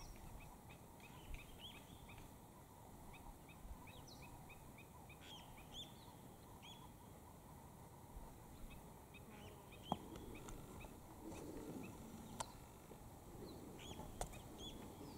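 Wild birds calling over a faint steady background: runs of short, high chirps, several a second at first, thinning out and returning near the end. A few sharp clicks stand out in the second half.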